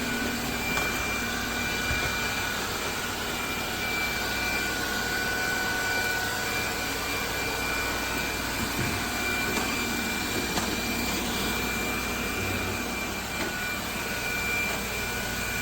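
Robot vacuum cleaner running: a steady suction-motor hiss with a constant high-pitched whine.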